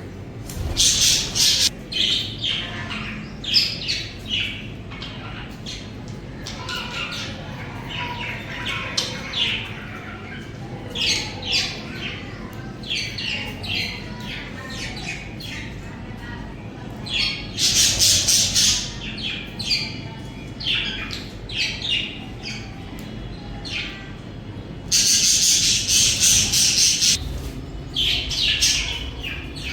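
Budgerigars chirping and chattering in a quick, continuous stream of short calls, broken by louder, harsher squawking three times: about a second in, around the middle, and for about two seconds near the end.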